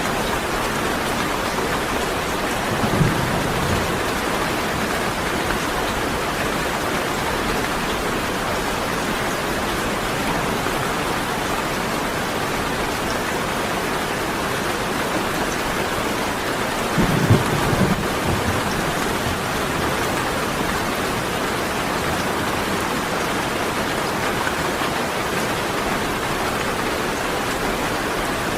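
Steady heavy rain falling, with two short low rumbles of thunder: one a few seconds in and a louder one a little past halfway.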